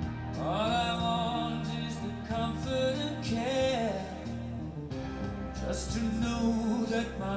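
Recorded music with a sung vocal line over accompaniment, played through a pair of Wharfedale Linton Heritage loudspeakers driven by a Primare i15 Prisma amplifier and picked up in the room at the listening position.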